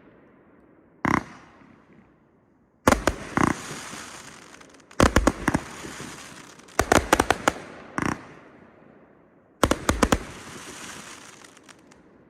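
A 124-shot firework battery firing: six volleys of sharp bangs about one to two seconds apart, each a cluster of several quick shots followed by a hissing, crackling tail.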